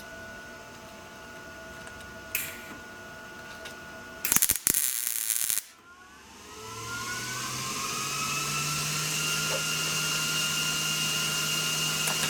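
A short, loud crackling burst of MIG welding tacking a sheet-metal patch in place. A few seconds later a motor whines up in pitch and runs steadily.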